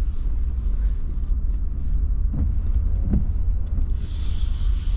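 Low, steady rumble of a vehicle's engine and tyres heard from inside the cab while driving slowly. About four seconds in, a hiss rises briefly over the rumble.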